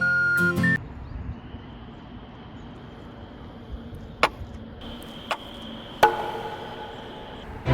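Background music cuts off under a second in, leaving a quiet background with a faint steady high-pitched hum. Three separate sharp knocks follow in the second half, the last one ringing briefly.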